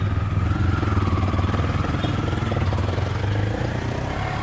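Auto-rickshaw (tuk-tuk) engine running steadily as the vehicle drives, a low even hum with rapid firing pulses.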